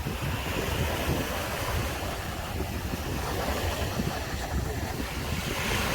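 Sea waves breaking and washing up on a sandy beach, a continuous surf wash that swells and eases, with wind buffeting the microphone in a low rumble.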